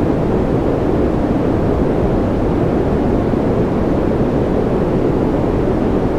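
Continuous white-noise sleep track: a steady, unbroken rushing noise. Most of its weight sits in the low and middle range, so it sounds deeper and less hissy than true white noise.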